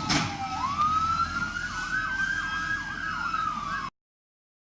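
Emergency vehicle siren: a tone rises, then switches to fast up-and-down yelping sweeps. A short knock sounds right at the start, and the audio cuts off abruptly near the end.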